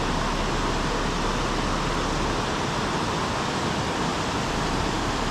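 Steady rush of fast-flowing creek water spilling over a waterfall, an even, unbroken noise.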